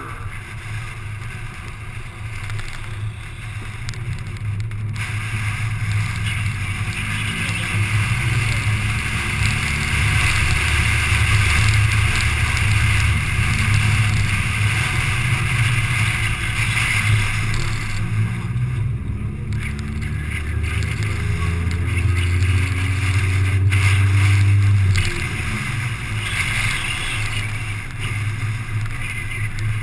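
Car engine heard from inside the car on an autocross run, a steady low drone. The engine note climbs in pitch and grows louder over the first several seconds, climbs again around twenty seconds in, and drops off sharply about 25 seconds in.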